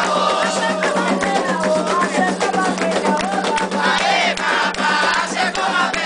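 Many voices singing and shouting together in a call-and-response-style ritual chant for Xangô, over dense rattling and percussion. A steady low hum runs underneath.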